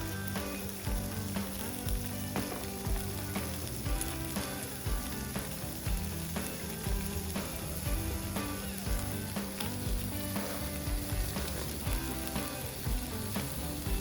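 Meat sizzling and frying on a hot iron plate, a steady hiss, with a regular low beat about twice a second underneath.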